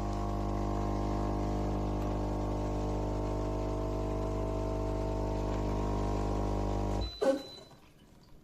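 Coffee machine's water pump humming steadily while dispensing coffee, then cutting off suddenly about seven seconds in, followed by a single sharp click as brewing ends.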